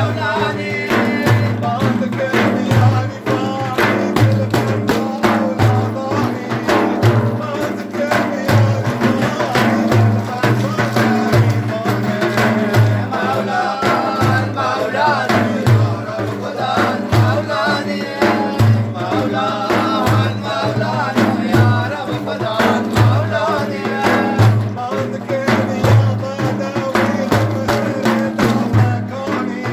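Sufi devotional praise song (madih): voices singing over a steady, even hand-drum beat.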